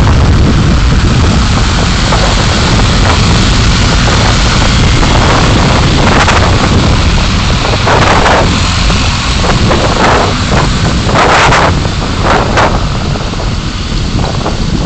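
Car dashcam road noise while driving: a loud, steady rumble of engine, tyres and wind buffeting the microphone, with several brief hissing swells in the second half.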